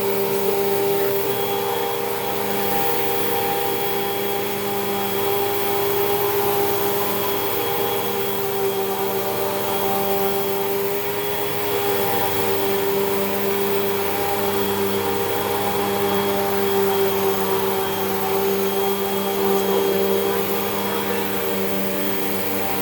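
A Hoover WindTunnel 2 Rewind upright vacuum cleaner running steadily with a motor whine over a rushing of air and brush roll, its level swelling and easing slightly.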